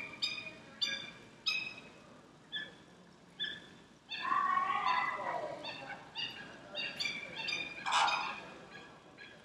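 Bird calls: a series of short, pitched calls repeated about once or twice a second, with a longer sliding sound about four seconds in.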